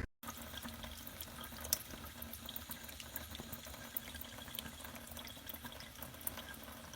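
Water running, as from a tap into a sink: a steady hiss with many small splashing ticks.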